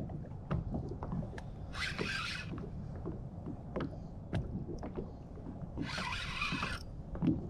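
Fishing reel being cranked in two short whirring bursts while a hooked bass is fought, with small knocks and clicks of handling against the kayak.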